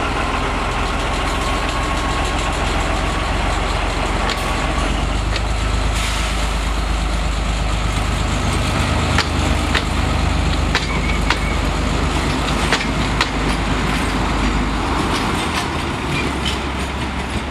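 Diesel-hydraulic narrow-gauge locomotive L45H-098 running with a steady low engine hum, with irregular sharp clicks and knocks from the train from about five seconds in.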